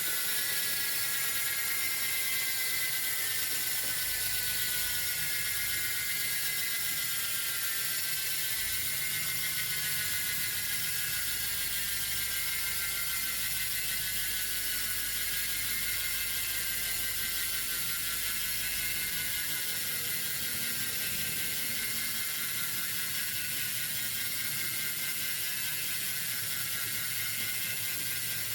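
Campagnolo Scirocco 35 rear wheel's freehub ratchet clicking rapidly as the wheel freewheels, a continuous buzzing run of pawl clicks that slowly drops in pitch as the wheel spins down.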